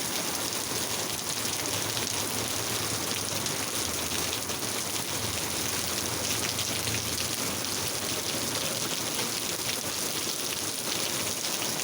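Steady rain falling, an even hiss of many drops striking surfaces, with fine individual drop ticks throughout.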